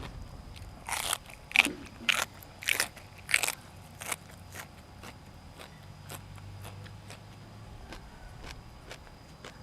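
Crunching bites into crisp food, about six in quick succession, then quieter chewing with faint clicks.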